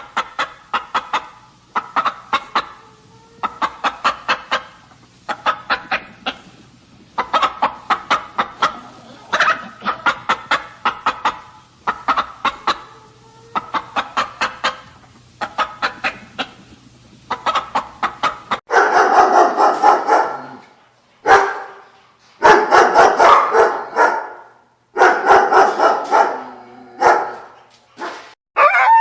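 Chickens clucking in quick clusters of short clucks. About 19 seconds in, louder and denser runs of calls take over, in four stretches of about two seconds each.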